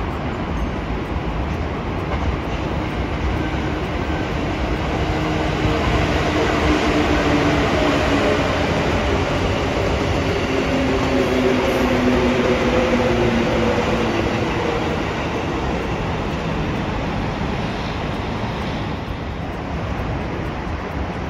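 A train passing: a steady rumble of wheels on rail that builds over the first several seconds, is loudest in the middle, and eases off near the end, with faint humming tones in the middle.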